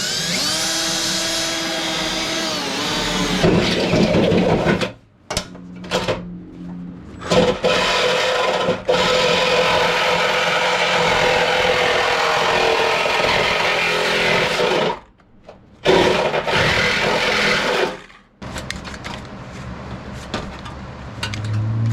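Handheld power tool cutting into sheet metal, with a wavering whine that changes pitch as it bites. It runs in several bursts of a few seconds with brief pauses, and is quieter near the end.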